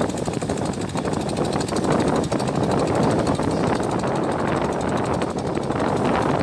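Boat engine running steadily with the boat under way, a dense continuous drone with water rush.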